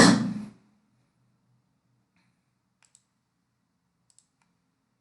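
A short burst that cuts off about half a second in, then near silence broken by a few faint, isolated clicks.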